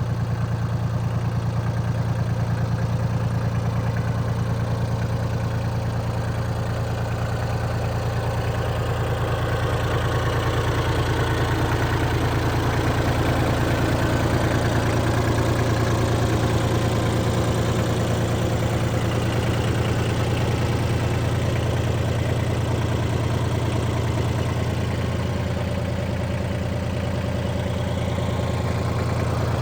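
Mitsubishi MT200 compact tractor's 20 hp three-cylinder diesel engine idling steadily.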